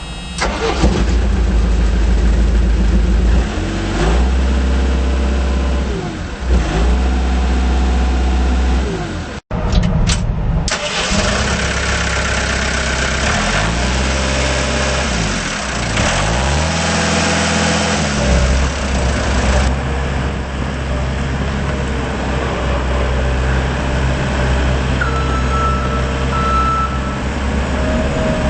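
Gehl SL5635 skid steer loader's Deutz diesel engine running, revved up and down several times, with a brief cut about nine and a half seconds in.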